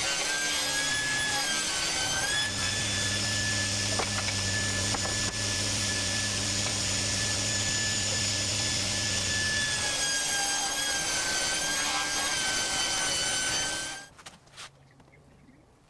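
A woodworking power tool running through wood with a steady high whine over a rough hiss. A deeper sound joins it for several seconds in the middle, and it cuts off suddenly near the end.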